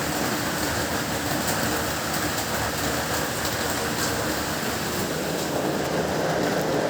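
Heavy rain falling steadily, a dense even hiss, with a faint steady low hum underneath.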